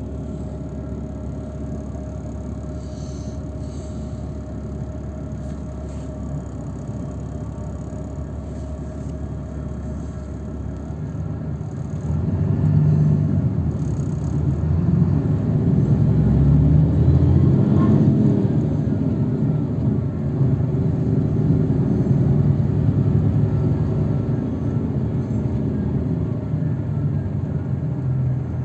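A road vehicle driving, a steady low rumble of engine and road noise that grows louder about twelve seconds in.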